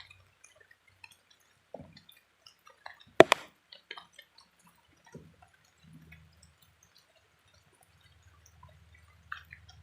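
Scattered water drips and small ticks, with one loud sharp knock or splash about three seconds in and a low hum that comes and goes.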